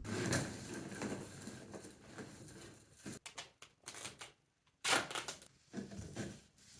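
Irregular rustling, clicking and knocking of things being handled, with one louder, short rush of noise about five seconds in.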